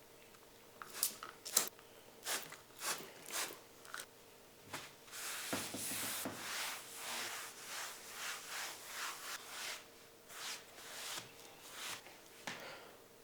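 Objects being handled and rubbed against a surface: a series of short scrapes and taps, with a longer scraping rub about five seconds in.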